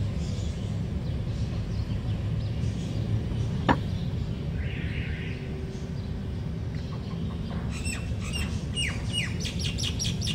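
A small bird chirping in a rapid run of short, falling chirps through the last couple of seconds, over a steady low rumble. There is a single sharp click a few seconds in.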